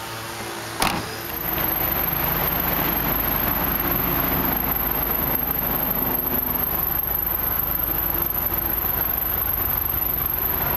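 Car trunk lid shutting with a single sharp thump about a second in. A steady running noise with a low hum and a thin high whine then sets in and holds.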